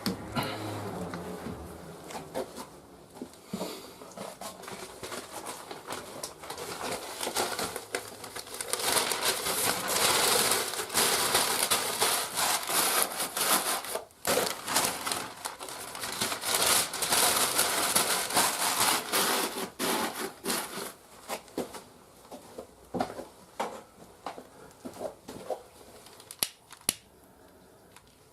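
Firewood burning in the firebox of a wood-fired boiler, crackling and popping with a dense rushing crackle that swells in the middle and thins to scattered pops near the end.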